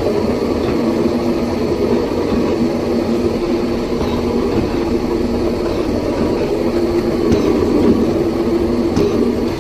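Metalworking machine tool running steadily, set going lightly to cut a keyway slot in a gear, with a steady hum.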